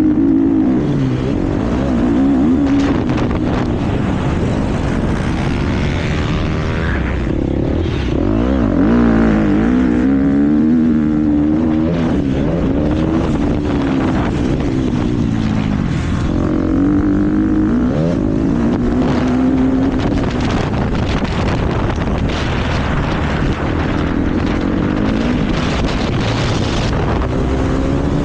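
KTM motocross bike engine at race pace, its pitch rising and falling over and over as the throttle is opened and closed and the gears change, with wind rumble over it.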